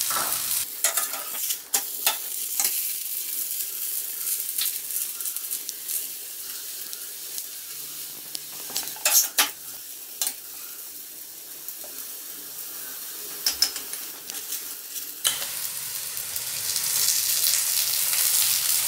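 Makki ki roti (corn-flour flatbread) frying in ghee on a hot iron tawa, a steady sizzle with a few sharp crackles and clicks. The sizzle swells louder for the last few seconds.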